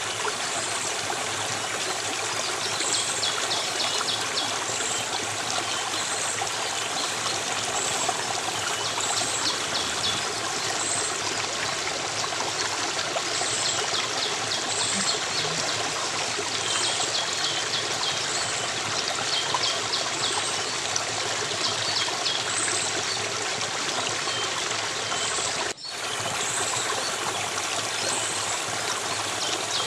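Stream water flowing and trickling steadily, with short high chirps repeating about once a second. There is a brief dropout about 26 seconds in.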